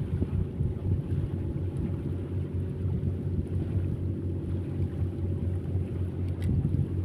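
An engine running steadily at one speed, with wind buffeting the microphone. There is a faint click near the end.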